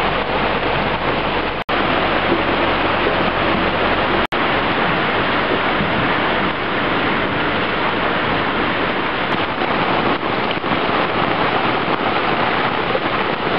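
Steady rain falling, a loud even hiss. The sound drops out for an instant twice, a few seconds apart.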